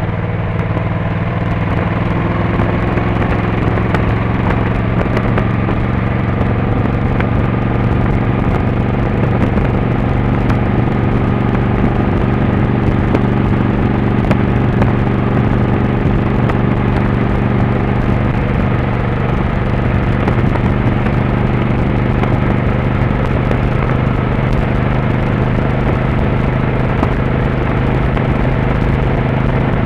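Motorcycle engine running while riding, its pitch rising over the first few seconds and then holding steady.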